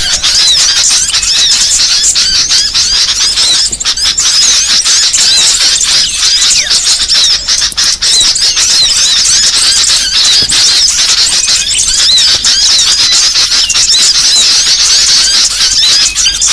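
Loud, unbroken chorus of many small birds chirping and squeaking at once, short high notes piled on top of each other: a bird-lure recording of noisy small birds, played to draw small songbirds in.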